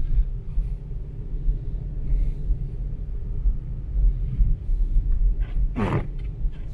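Low, steady rumble of a car driving on snowy roads. About six seconds in there is a brief sound whose pitch bends.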